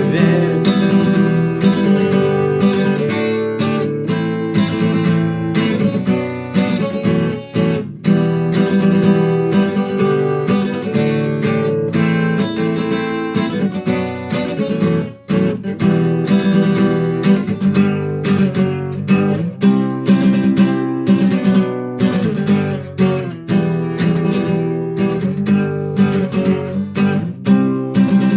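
Acoustic guitar strummed in a steady rhythm, an instrumental passage of the song with no singing.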